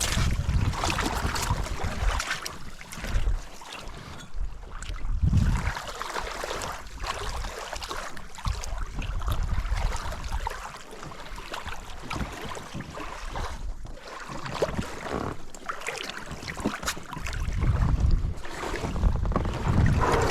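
Wind buffeting the microphone over rushing water aboard a small boat, in uneven gusts with low rumbles.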